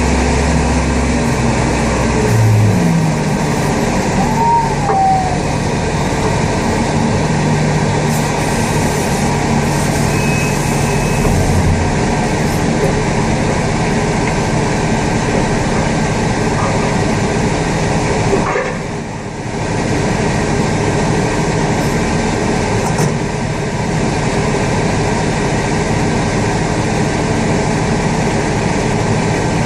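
Loud, steady aircraft and ground-vehicle noise during an Airbus A380 pushback: a continuous rush of engine noise with the low drone of the pushback tug's engine, which changes pitch about two seconds in.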